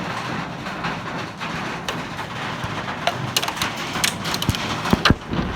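Hailstorm: a steady roar of hail and rain with many sharp clicks of hailstones striking hard surfaces, and a few heavier knocks near the end.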